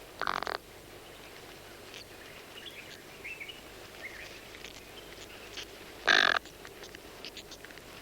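Malachite kingfisher nestlings in the nest chamber making faint high chirps throughout, with two loud, short, harsh calls: one right at the start and another about six seconds later.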